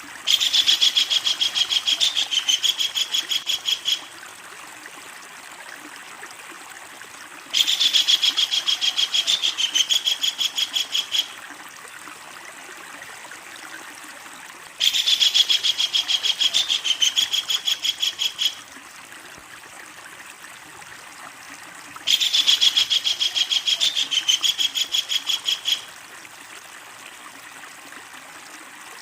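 Kingfisher giving its long rattling call: a rapid run of high, evenly repeated notes lasting nearly four seconds. It comes four times, about seven seconds apart, over a steady faint hiss.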